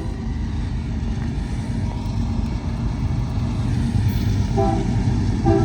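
Diesel freight locomotive rumbling under power as it approaches, slowly getting louder, with two short tones near the end.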